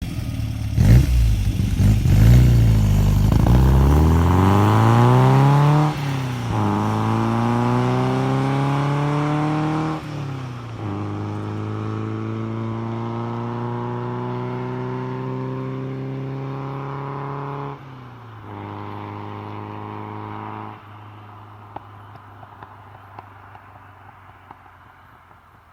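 Modified 1971 MGB GT's four-cylinder engine, with a Weber 45 DCOE carburettor, header and big-bore exhaust, accelerating hard through the gears. The pitch climbs and drops at each upshift, about 6, 10 and 18 seconds in. About 21 seconds in the engine drops to a lower level, and the sound fades out near the end.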